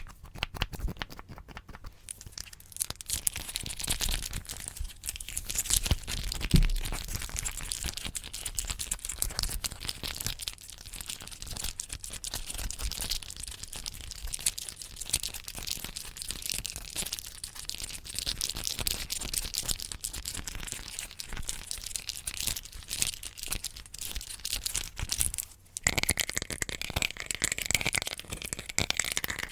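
Close-miked ASMR trigger sounds: a dense, fast crackling rustle. After a brief pause about 26 seconds in, it changes to a different sound.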